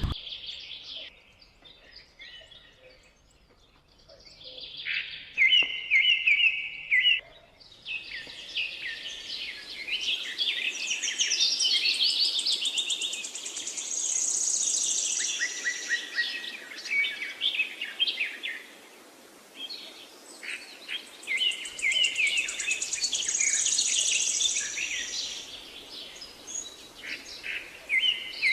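Birds chirping and chattering in high, rapid trills. The calls are sparse for the first few seconds, then come almost without pause.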